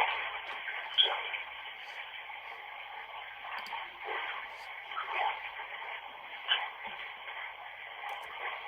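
Steady radio static hiss with a thin, telephone-like tone, broken by short clipped blips of sound at irregular moments, like a radio sweeping through stations.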